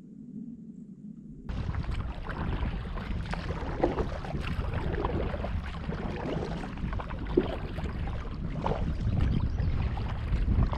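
Canoe paddling on a lake: scattered paddle splashes and water noise with wind rumbling on the microphone. For the first second and a half the sound is muffled, then it opens up abruptly.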